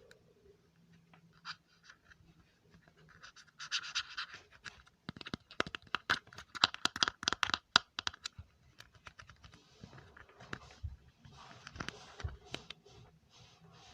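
Close-miked ASMR triggers: scratching, with a dense run of quick taps and clicks in the middle and more scratching near the end.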